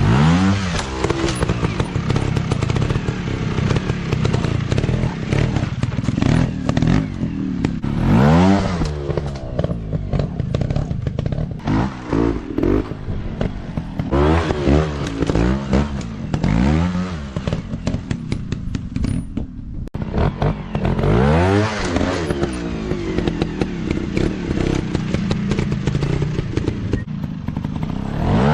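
Dirt bike engine revving hard again and again, the pitch climbing and dropping with each burst of throttle, with a rattling clatter between the revs.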